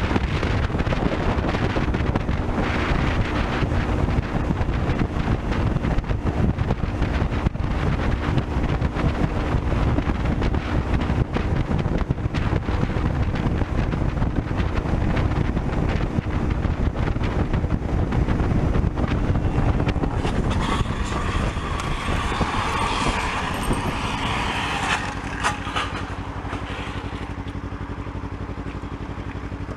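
Kawasaki Ninja 300 motorcycle riding at speed, its steady engine note mixed with heavy wind rush. About two-thirds of the way in the engine note drops as the bike slows, with a burst of rushing noise and the overall sound easing off near the end.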